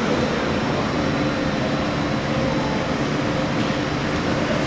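ÖBB Railjet train at the station, a steady rumble and electric hum with a few faint held tones, even throughout.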